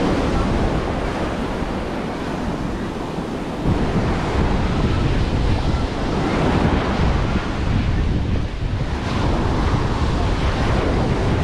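Ocean surf washing onto a beach, with wind buffeting the microphone in a heavy, uneven low rumble. The wind rumble eases briefly, then picks up again about a third of the way in.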